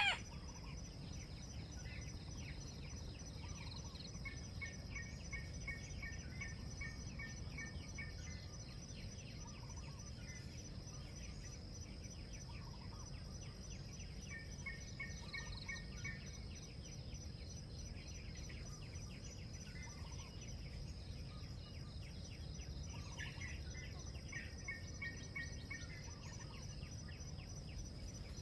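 Steady high-pitched insect drone with a bird calling in three runs of quick repeated notes, over low background noise.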